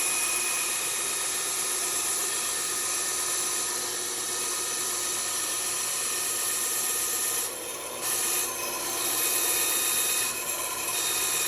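Band saw running and cutting out a shape: a steady motor hum with the rasp of the blade in the stock. The cutting sound drops off briefly twice in the second half.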